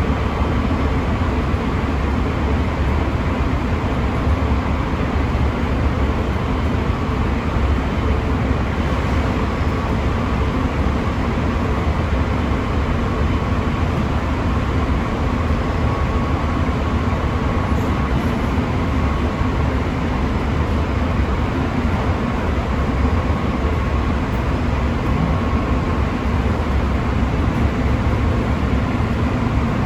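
Chiba New Town Railway 9100 series electric train running at a steady speed, heard from inside the car: an even rumble of wheels on the rails with a faint steady tone.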